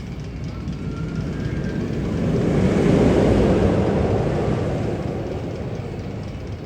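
A deep rushing rumble that swells to a peak about three seconds in and then fades away, like something large passing by through the coaster tunnel.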